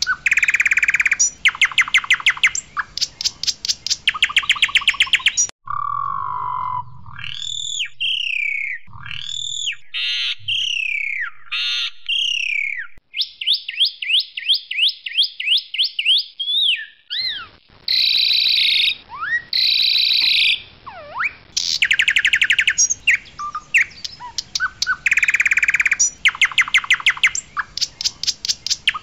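Asian pied starling (jalak suren, white variant) singing loudly: rapid rattling trills alternate with slurred whistles that rise and fall, and a quick even run of short chirps halfway through.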